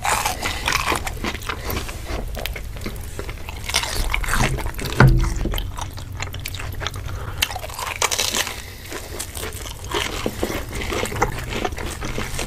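Close-miked ASMR biting and chewing of crispy fried mozzarella corn dogs: the batter crust crunches and crackles with each bite. There is one louder, deeper thump about five seconds in.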